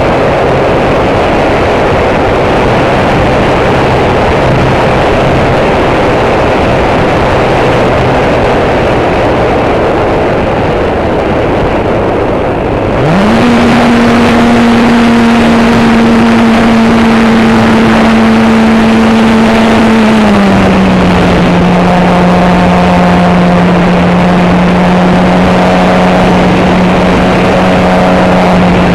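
RC model airplane's motor and propeller, with a loud rush of wind over the microphone. The motor runs at a low pitch, then about 13 seconds in it climbs sharply as the throttle opens. It holds steady, then eases a little lower about 20 seconds in and runs on.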